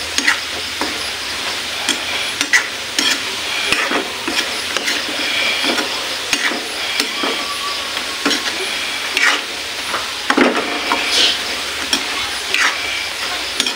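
Squid balls sizzling in hot oil in a wok while a metal ladle stirs them, scraping and clinking against the pan many times.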